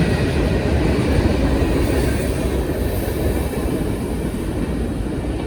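A train passing close by on the main line, its wheels rumbling and clattering over the rail joints; the noise slowly fades toward the end.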